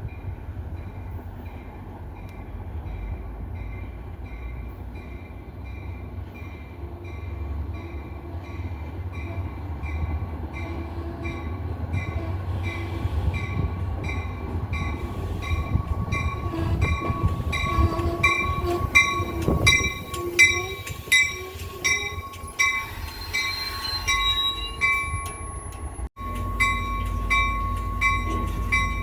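NJ Transit Atlantic City Line train passing, its rumble building with wheel clatter in the middle. A grade-crossing bell dings steadily, a little under twice a second, with a brief drop-out near the end.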